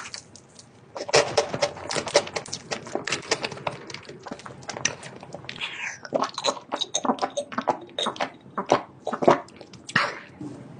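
Close-up eating sounds: a rapid, irregular run of crunches, clicks and wet smacks of chewing and biting, with a couple of short squeaky slides about six seconds in and near the end.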